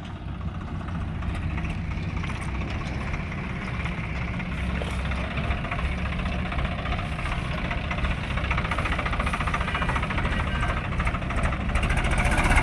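Swaraj 855 tractor's three-cylinder diesel engine running steadily, growing louder toward the end.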